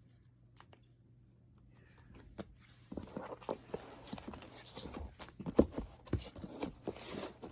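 Trading cards and plastic binder pocket pages being handled: a run of rustles, taps and clicks that starts about three seconds in after a quiet stretch.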